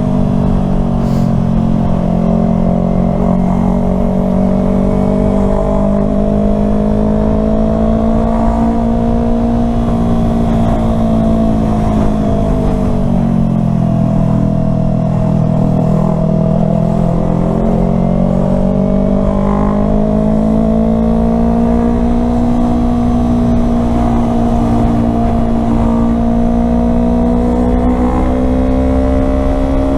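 Yamaha R3 parallel-twin engine running at steady riding revs, its pitch easing down for a few seconds in the middle and then climbing back up.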